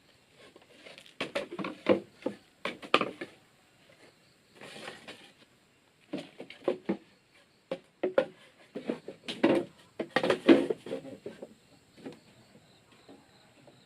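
Irregular series of wooden knocks and clatters, in clusters with short gaps, as bamboo or wood is handled and set down.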